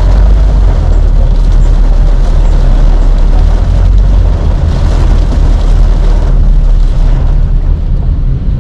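Vehicle driving on a highway: a loud, steady, deep rumble of road and wind noise on an action camera's microphone.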